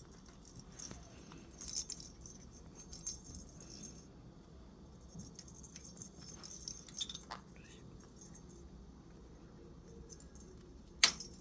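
Light clinking, jingling and rattling at irregular moments, with one sharp knock near the end: a pet conure handling and jostling small jingling objects.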